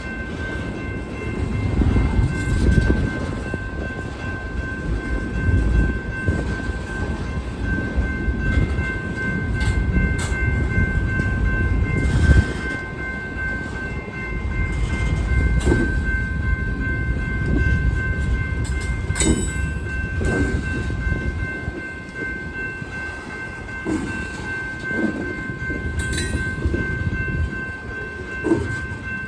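Freight cars of a passing train rolling by: a steady low rumble with irregular knocks and clanks, a sharp bang about twelve seconds in, and brief high wheel squeals twice in the second half.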